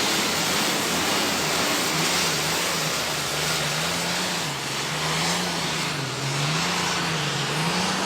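Turbocharged diesel super stock pulling tractor running flat out under load. Its engine pitch wavers up and down about once a second, and the sound cuts off suddenly at the end.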